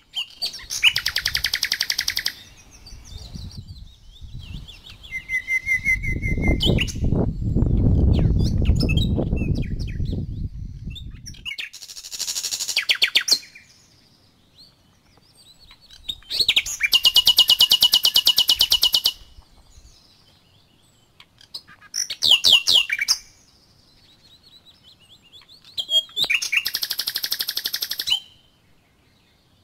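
Songbirds singing close by in loud bursts of rapid trills, each a second or two long, returning every few seconds. A loud low rumble runs for about five seconds in the first half.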